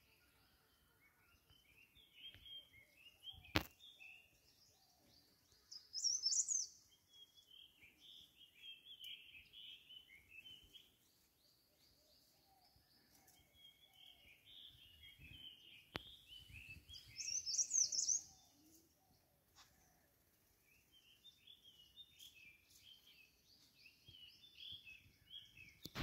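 Wild birds chirping and twittering in repeated phrases, with two louder, high-pitched bursts about six and eighteen seconds in. A few sharp clicks are heard.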